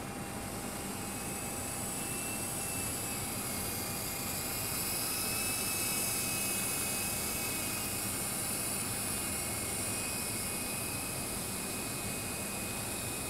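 Twister 400 V2 radio-controlled helicopter in flight: a steady high whine and hiss from its electric motor and spinning rotor, swelling louder about halfway through as it comes nearer, then easing off.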